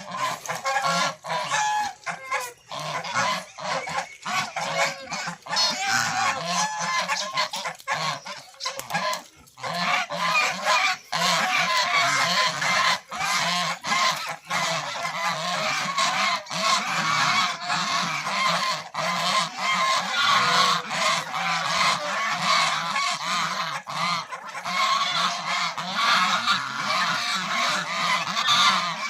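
A flock of domestic ducks and geese calling without pause, many voices overlapping.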